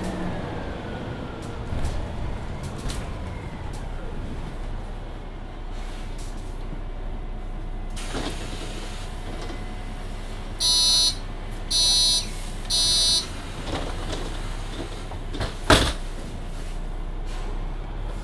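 Mercedes-Benz Citaro C2 hybrid city bus standing at a stop with its engine humming steadily. Three loud warning beeps sound about halfway through, the signal that the doors are closing, and a sharp bang of the doors shutting follows a couple of seconds later.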